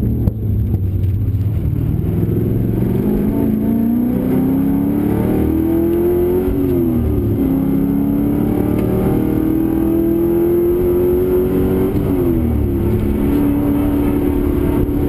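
Holden V8 race car engine heard from inside the cabin under hard acceleration. The note climbs steadily, drops sharply twice as the car shifts up a gear, about halfway through and again near the end, then holds steady.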